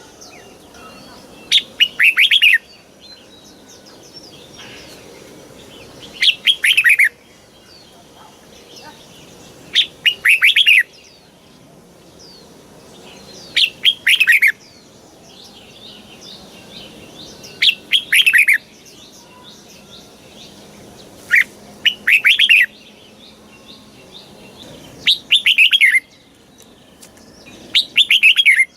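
Red-whiskered bulbul singing: short, loud phrases of quick whistled notes, each about a second long and repeated roughly every four seconds.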